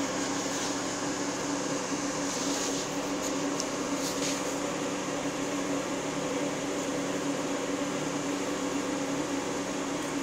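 Steady mechanical hum, like a fan or air-conditioning unit running, with a few faint, short, high-pitched ticks or chirps a few seconds in.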